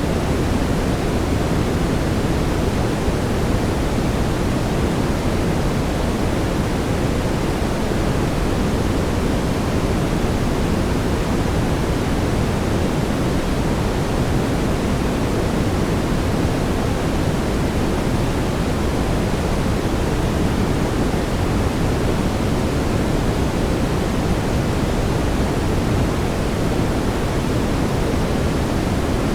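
Steady brown noise: a constant, even rushing hiss weighted toward the low end, with no changes.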